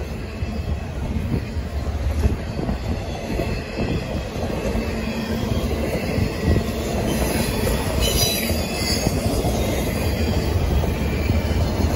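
Double-stack intermodal container cars of a freight train rolling past, with a steady low rumble of wheels on rail. Brief high wheel squeals come in a little past the middle.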